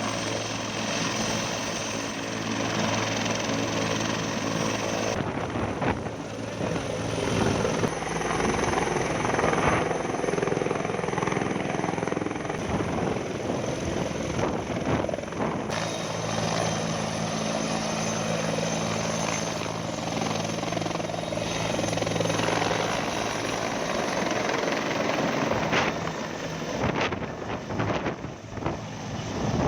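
Steady engine drone: a low hum under a loud hiss, changing abruptly about five and again about sixteen seconds in.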